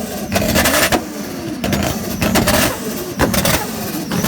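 Car engine revved hard several times in quick succession, the pitch climbing and dropping with each blip, in a rev battle.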